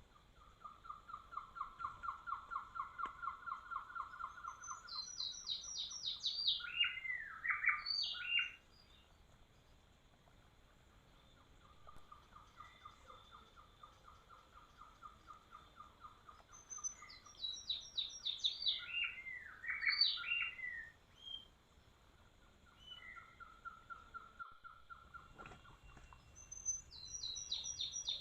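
A songbird singing the same song three times: each begins with a long, fast, even trill, followed by a run of high notes stepping down in pitch and a few lower, looping whistled notes.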